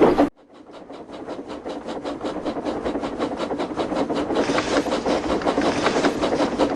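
OO gauge model of the Mallard locomotive running on model track: a rapid, regular clicking of wheels over the rail joints with the hum of its motor, growing louder over the first few seconds.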